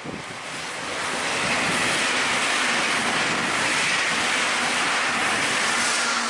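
Meitetsu electric train passing at speed: a rushing wheel-and-air noise that builds over the first second or so, holds steady and loud, then starts to ease near the end.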